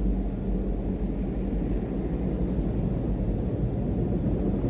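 Steady low rumble of a car running, engine and road noise with no clear change.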